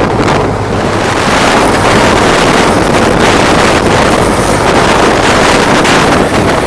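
Tour boat's engine running steadily with the boat under way, with wind buffeting the microphone.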